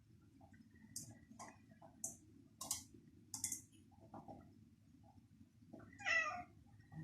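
A cat chewing cabbage with several short, crisp crunches, then giving one short meow about six seconds in, the loudest sound.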